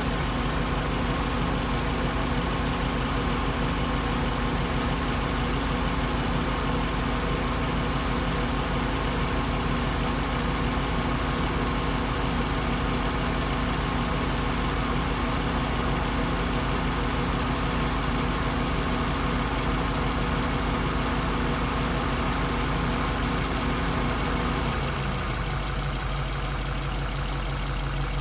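Subaru EJ207 turbocharged flat-four idling warm with its thermostat open. The engine is suspected of a failed head gasket or a crack that pushes combustion gases into the coolant. About three seconds before the end the sound thins and drops slightly in level.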